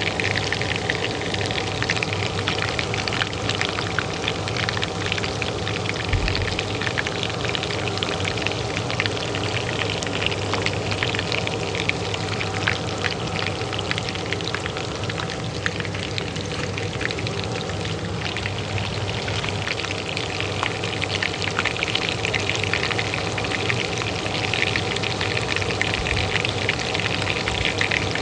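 Hot oil frying in a pan, a dense, steady crackle and spit, over the continuous hum of a kitchen range hood fan.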